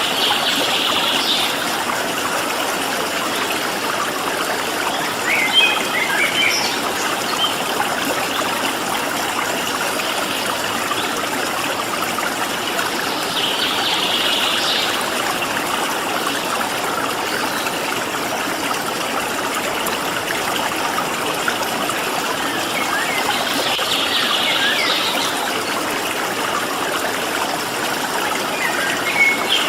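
Water flowing steadily in a stream, with small birds calling over it: short trills about a second in, about halfway and toward the end, and a few scattered chirps.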